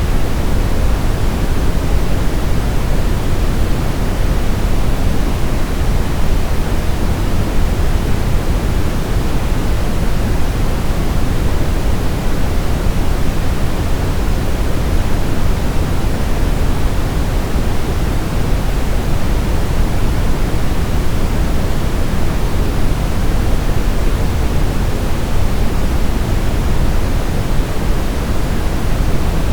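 Synthetic brown noise: a steady, even rumbling hiss, heaviest in the bass and thinning toward the treble, with no change throughout.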